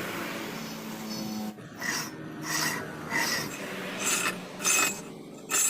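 A hand tool scraped back and forth on metal. After a steady hiss it settles into repeated rasping strokes, about one and a half a second and unevenly spaced, each with a thin ringing edge.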